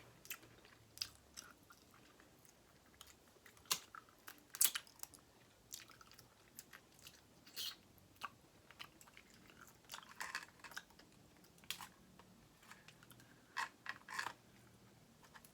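Faint, close-up eating sounds of a seafood boil: chewing, with irregular sharp clicks and crunches, the loudest a few seconds in.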